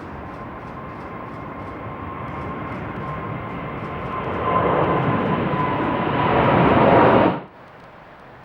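Jet airliner engines growing steadily louder as the aircraft approaches, a rushing roar with a steady whine running through it, then cutting off abruptly about seven seconds in.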